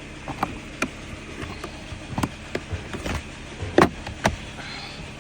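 Hard plastic clicks and knocks, about eight of them spread irregularly, the loudest about four seconds in: the glove box of a VW Passat being refitted, its clips and soft-close damper snapping back into place. A steady low hum runs underneath.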